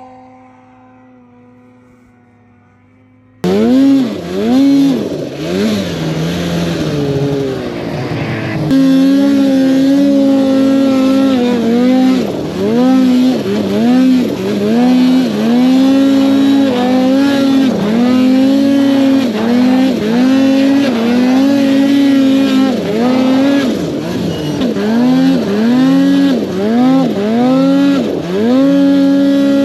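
Snowmobile engine held at a steady drone, then, about three seconds in, a sudden change to a loud sled being revved up and down over and over, roughly once a second, as it is ridden through deep snow.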